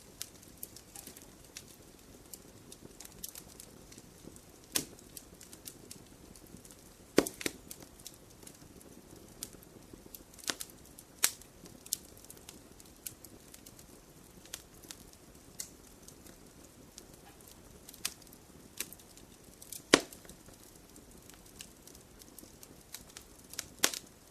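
Wood campfire burning in a stone fire pit: a low steady hiss broken by irregular crackles and sharp pops, the loudest pops a little past seven seconds, around twenty seconds and near the end.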